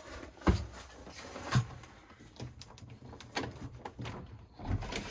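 A few sharp knocks and thumps, the loudest about half a second in, another about a second later and more near the end, with quieter handling and rustling between.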